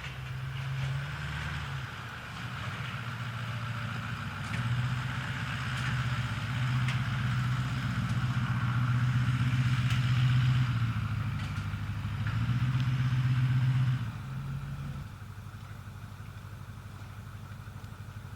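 An engine running, its sound rising and falling under varying throttle or load, then dropping to a quieter steady idle about fifteen seconds in.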